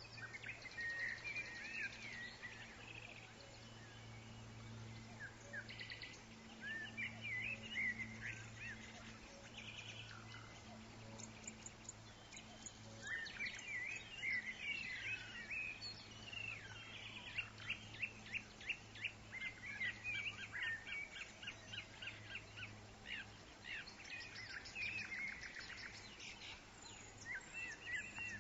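Several woodland birds singing and chirping, with quick runs of repeated notes and trills, busiest in the second half, over a faint steady low hum.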